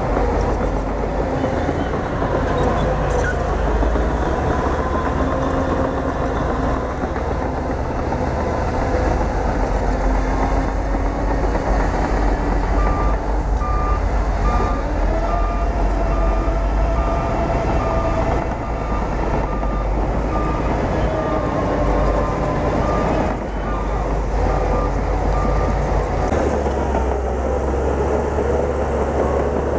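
Bulldozer's diesel engine running steadily while working, with a reversing alarm beeping about twice a second through the middle part.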